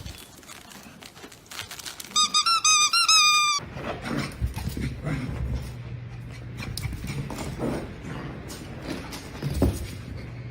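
A quick run of about six high-pitched squeaks over a second and a half, each rising and dropping in pitch. They stop abruptly and give way to a steady low hum with a few soft thumps.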